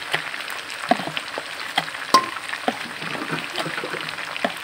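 Pieces of potato, green banana and papaya frying in hot oil in a metal pan: a steady sizzle full of small crackling pops, with one sharp louder pop about two seconds in.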